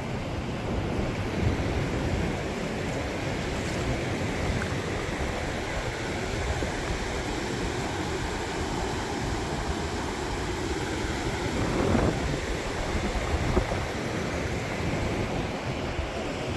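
Ocean surf washing onto the beach, with wind rumbling on the microphone; a wave breaks a little louder about twelve seconds in.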